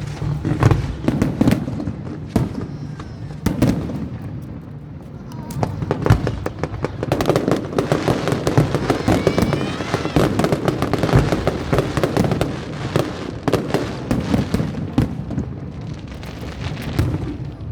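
Aerial fireworks bursting in rapid, crackling volleys, densest in the middle stretch, with a few rising whistles from shells going up.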